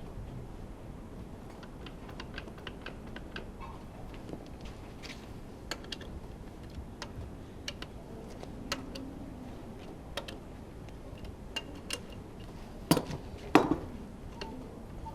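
Hand tools and small metal parts clicking and tapping during disassembly of a Honda V10 Formula One engine: scattered light ticks, with two louder knocks near the end.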